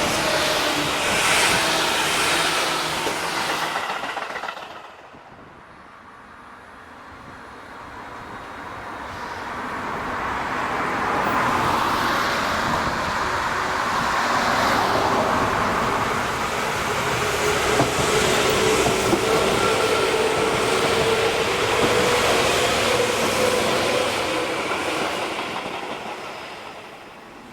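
Electric commuter train running on the rails with wheel clatter; the noise cuts off abruptly about five seconds in. A second passage then swells up, holds with a steady motor hum and rail clatter, and fades near the end.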